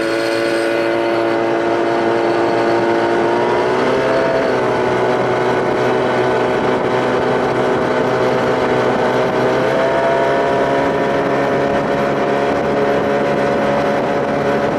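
Evinrude 25 two-stroke outboard, built up with a bigger intake, running under way at speed; its engine note steps up about four seconds in and rises slightly again near ten seconds as it picks up revs.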